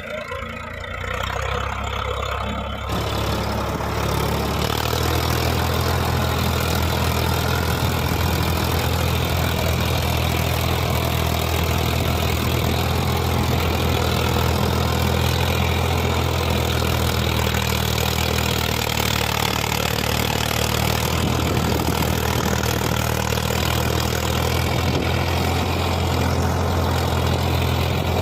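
Farmtrac 60 tractor's diesel engine running steadily, its note rising in level about three to four seconds in and then holding even.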